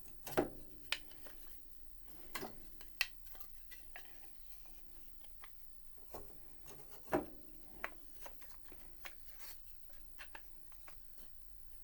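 Scattered light clicks and knocks of spinet piano keys and small action parts being handled and set down, with a few louder knocks among them.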